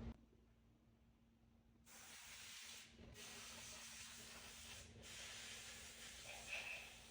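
Near silence, then a faint steady hiss from about two seconds in.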